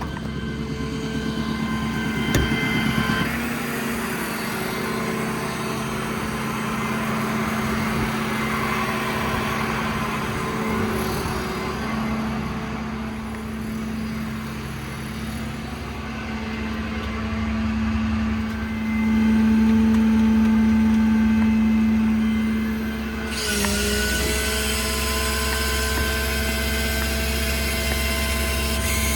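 Truck-mounted hydraulic air compressor running, engaged from the remote, over the truck's Cummins diesel: a steady mechanical hum. It grows louder for a few seconds, then about three quarters of the way through the note shifts suddenly and settles into a new steady drone.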